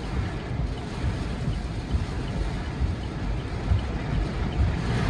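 Strong microburst winds gusting: a steady rushing hiss with irregular low rumbling buffets of wind against the microphone.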